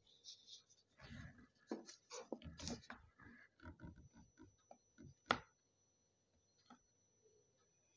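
Close-up mouth sounds of a person eating a soft, syrupy gulab jamun: wet chewing, lip smacks and small slurps over the first few seconds. A single sharp click comes about five seconds in, after which it is mostly quiet.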